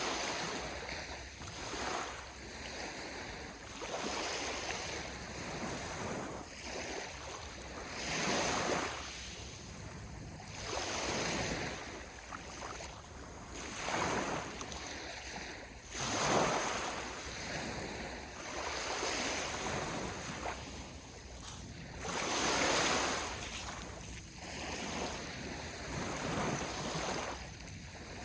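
Sea waves washing onto the shore, the surf swelling and falling back every two to three seconds.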